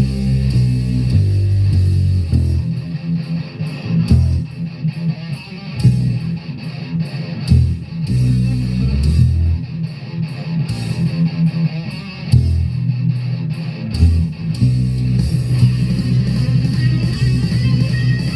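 Electric bass guitar playing a riff of low plucked notes that change pitch in quick steps, with a few short breaks.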